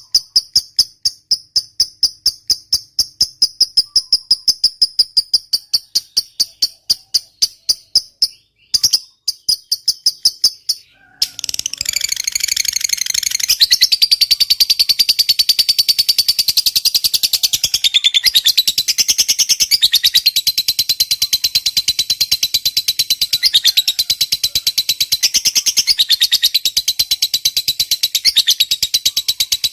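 Lovebird calling: rapid, high repeated chirps at about four or five a second, a short break about eleven seconds in, then the long ngekek, a fast high chattering trill that carries on without stopping.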